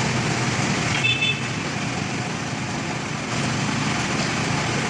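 Steady motor vehicle engine and traffic noise, with a brief high chirp about a second in.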